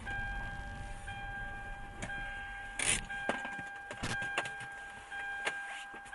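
A steady high tone held throughout, briefly broken and renewed about once a second, with several short knocks and rattles over it.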